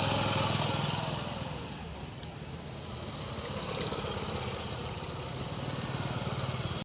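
A motor vehicle's engine running, loudest in the first second and then easing off, over steady outdoor noise with a few short high chirps.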